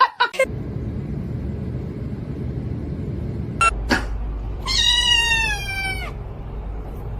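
A domestic cat gives one long meow, its pitch dropping at the end, over a steady low rumble.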